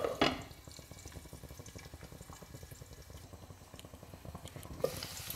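A glass lid is set on a frying pan with a clink, then boiled pork and garlic fry in oil under the lid with a faint, muffled sizzle and crackle. Near the end there is a light knock and the sizzle turns brighter.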